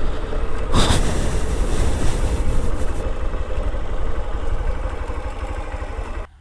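Motorcycle engine running at a steady idle, with a louder burst about a second in. The sound cuts off abruptly near the end.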